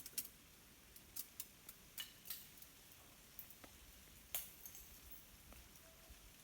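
Ice-coated tree branches cracking and clinking as they sway in a breeze: scattered sharp crackles and ticks at irregular moments, the loudest about four seconds in.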